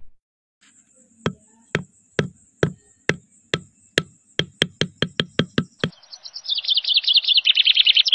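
A series of sharp knocks that come faster and faster, then a rapid run of high chirps, like birds twittering, near the end.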